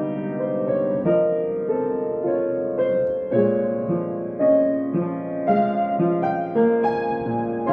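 Solo piano playing a slow, gentle melody over sustained chords, with a new note or chord struck about every half second.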